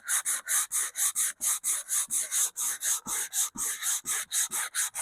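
180-grit sandpaper rubbed by hand back and forth along a wooden radio cabinet rail, in quick even strokes of about four to five a second.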